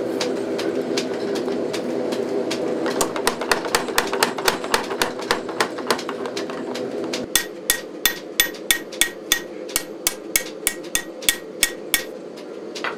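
Hammer blows on a hot 5160 spring-steel knife blade on an anvil, about three strikes a second, as the blade is straightened and shaped. A steady drone runs under the first half. In the second half the strikes ring out clearly, and they stop about a second before the end.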